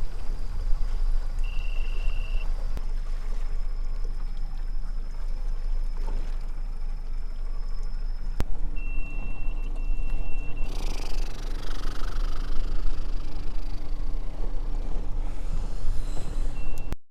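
Steady low rumble aboard a small boat at sea, with a high electronic beep tone sounding twice: briefly about one and a half seconds in, and for about two seconds near nine seconds in. A steady hum runs through the second half.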